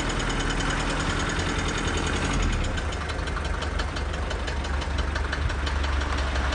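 Mercedes-Benz W124 200D's 2.0-litre four-cylinder diesel engine running with a steady diesel clatter, heard from inside the car as it is driven. The engine note shifts about two and a half seconds in.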